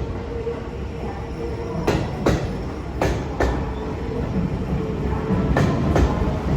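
Seibu Line electric train running past. Its wheels click over the rail joints in pairs, one bogie's two axles after the other, over a steady rumble.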